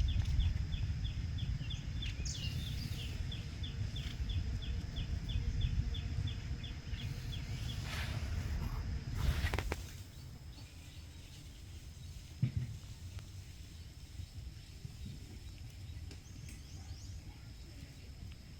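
Outdoor nature ambience with a low rumble of wind on the microphone and a quick string of high chirps, about three or four a second, for the first several seconds. Two brief rustles come just before the rumble drops away, about halfway through.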